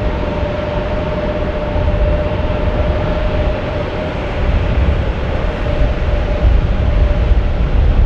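Jet airliner engines running loud and steady: a deep rumble with a steady whine, growing a little louder partway through.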